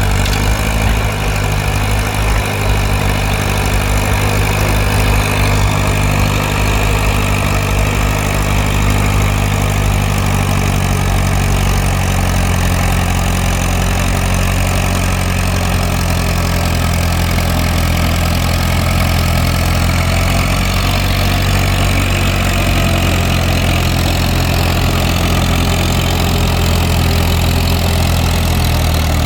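Antique tractor engine running steadily at a constant speed, its pitch shifting slightly about ten seconds in.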